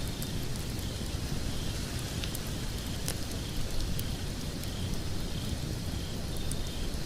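Wood fire burning in a fireplace: scattered sharp crackles and pops over a steady hiss and low rumble.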